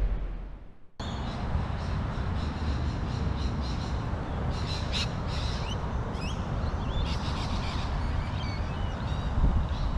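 A loud intro sound fades out over the first second. Then birds chirp and call, in short chirps and gliding notes, over a steady low rumble.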